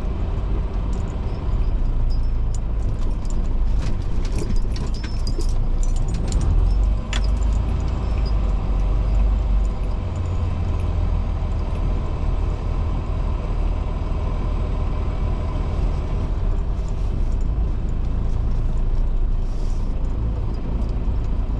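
Semi truck running with a steady low rumble, with bursts of rattling clicks a few seconds in.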